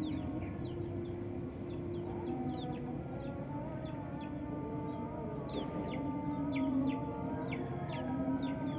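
Local Sumbawa white-eye (pleci) singing: rapid runs of thin, high notes, each sliding quickly downward, busier in the second half. Underneath are lower drawn-out calls, typical of chickens clucking.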